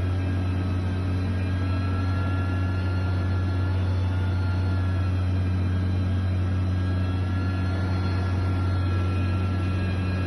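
Heavy construction machine's diesel engine running steadily: a deep, constant hum with faint high whining tones above it.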